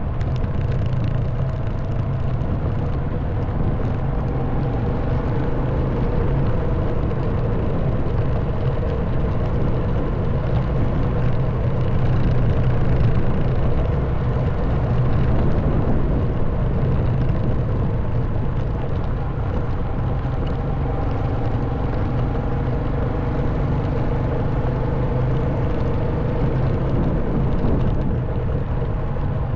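Honda Wave 110cc motorbike's single-cylinder four-stroke engine running steadily while riding, its pitch drifting a little with throttle, over a steady rush of road noise.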